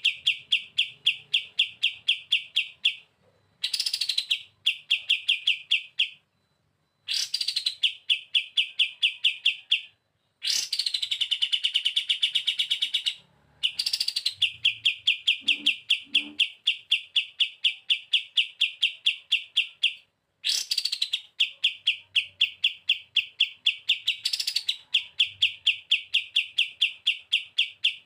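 Kapas tembak songbird singing its 'bren' song: fast, dry trills of about five notes a second, each phrase opening with a short falling note and lasting a few seconds, with brief pauses between phrases.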